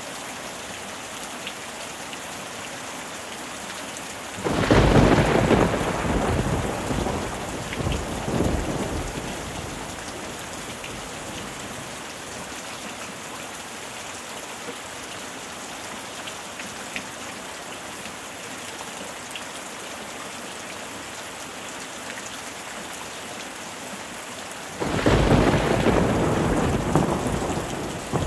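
Steady rain falling on a pool's water surface, with two sudden thunderclaps that rumble away over a few seconds: one about four seconds in and another near the end.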